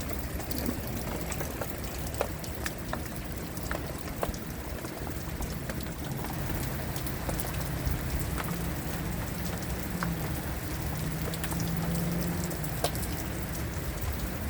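Heavy rain falling steadily, with many individual drops clicking sharply on a nearby surface.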